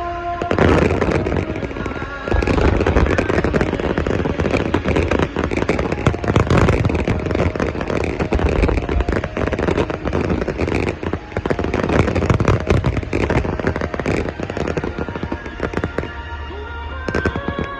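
Dense barrage of aerial fireworks: many rapid bursts and crackling reports that start about half a second in and die down near the end, over music played for the display.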